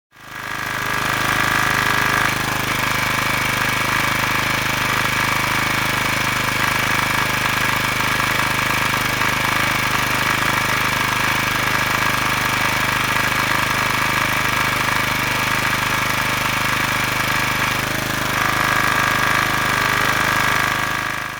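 Fire truck engine running steadily, a dense mechanical noise with a high whine that steps up slightly in pitch about two seconds in and back down near the end.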